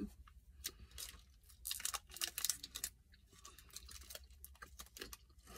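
A person chewing a Snickers Almond bar, with the crinkle of its plastic wrapper handled in her fingers: a run of soft clicks and crackles, densest in the middle.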